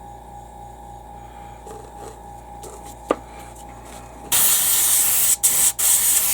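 Airbrush spraying with a loud, steady hiss that starts suddenly about four seconds in and breaks off briefly twice as the trigger is let go, blowing acrylic airbrush cleaner out through the nozzle to flush it. Before that there is only a steady low hum and a single click about three seconds in.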